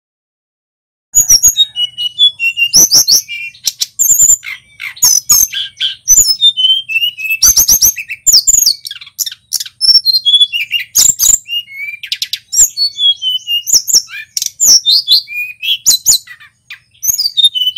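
Male Tledekan Gunung, a small Indonesian flycatcher, singing a fast, unbroken string of high chirps and downward-sliding whistles that starts about a second in.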